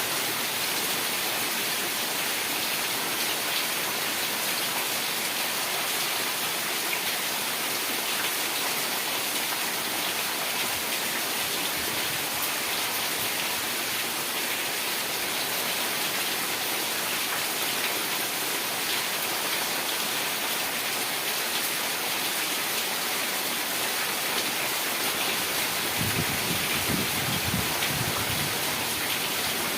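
Heavy rain falling steadily, a dense even hiss of drops, with a low rumble near the end.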